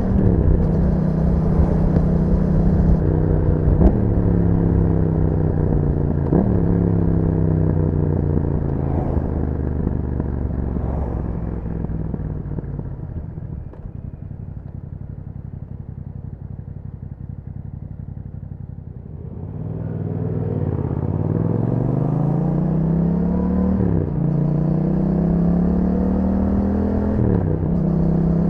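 2021 Yamaha MT-07's parallel-twin engine through an Akrapovic exhaust, heard from the bike while riding. The engine winds down through a couple of gear changes and drops to a quieter low run for several seconds. It then pulls hard again, its pitch climbing and breaking off twice at upshifts near the end.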